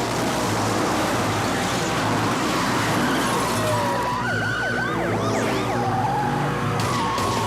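Car-chase sound mix of police sirens wailing over racing car engines, full of short rising and falling pitch sweeps, with no pause.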